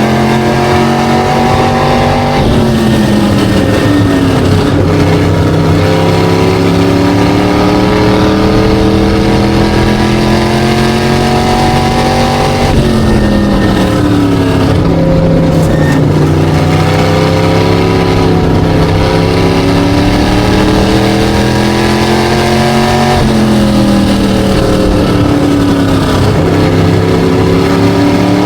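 SK Light race car engine at racing speed. Its pitch climbs steadily for about ten seconds, then drops sharply, three times over, as the car accelerates and then lifts off.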